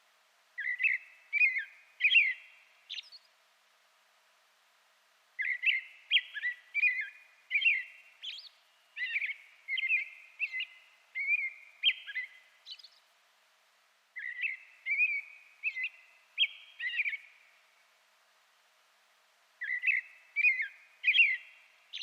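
A songbird singing in four bouts of quick chirping, whistled notes, each bout a few seconds long with short pauses between.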